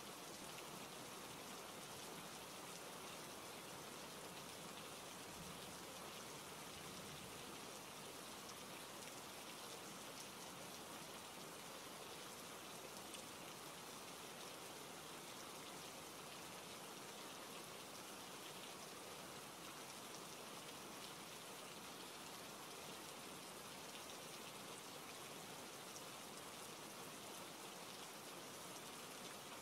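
Steady rain falling, an even hiss of rain with no breaks or changes.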